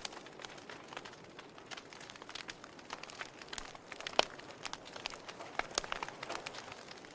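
Wood fire in a fireplace crackling: irregular sharp pops and snaps over a soft hiss, with one louder pop about four seconds in.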